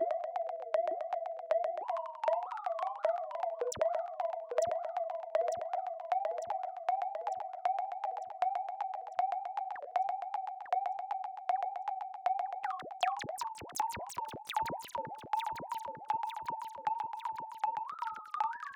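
Synthesized robot chatter: quick warbling bleeps and chirps in the style of R2-D2, pulsing several times a second. A dense run of sharp clicks joins in about two-thirds of the way through.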